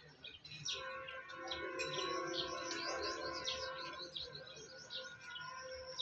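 Birds chirping in quick, high, repeated chirps. Underneath, a steady hum with several pitches comes in about a second in and fades out about four seconds in.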